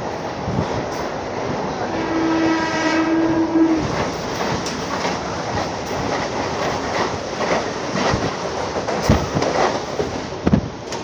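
Mumbai suburban electric local train running at speed, heard from on board by an open door, with a steady rush and rumble broken by clicks and thumps over rail joints. A train horn sounds once as a single held note for about two seconds, starting about two seconds in. In the second half another local train passes close alongside.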